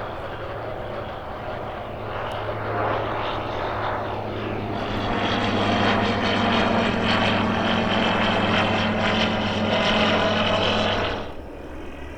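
Light propeller-driven piston aircraft running steadily, growing louder about five seconds in as it comes close, then cutting off sharply near the end.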